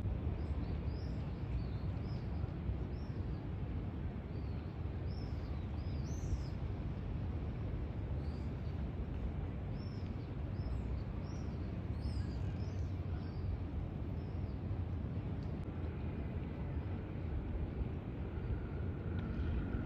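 Small birds chirping in short high calls, one or two a second, stopping about two-thirds of the way through, over a steady low outdoor rumble.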